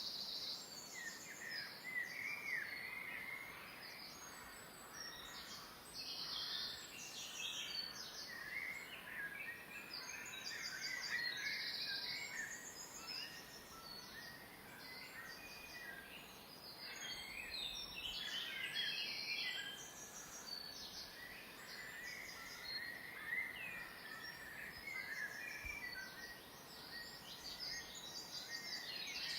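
Outdoor nature ambience of several birds chirping and calling, with short high-pitched trills repeating every few seconds.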